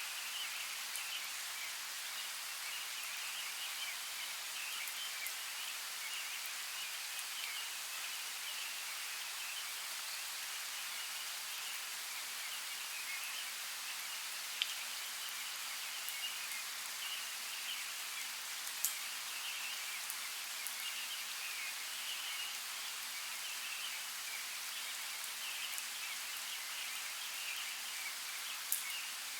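Steady rain: an even hiss of rainfall with a fine crackle of drops, broken by a few sharper drip ticks, the last near the end.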